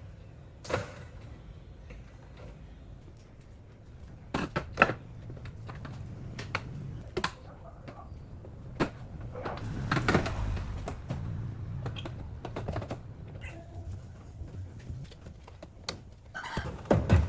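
Irregular clicks and knocks of hand work on materials in a workshop, with a few louder knocks near the end.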